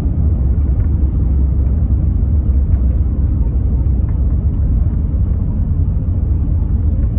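Steady low rumble of an Airbus A321neo's passenger cabin with the aircraft under way, loud and unchanging.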